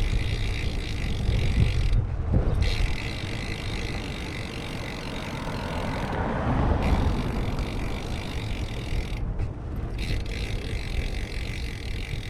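Wind rumbling on a GoPro Hero 8 Black's microphone during a bicycle ride, a steady low buffeting with road noise underneath.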